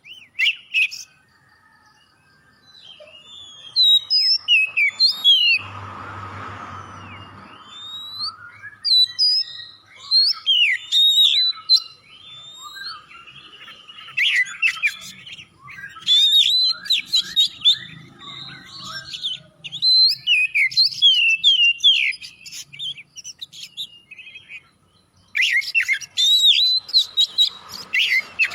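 Oriental magpie-robin (kacer) singing in a rich, varied song of quick whistled notes, slurs and sweeps, in phrases broken by short pauses. There is a brief harsh, noisy rasp about six seconds in.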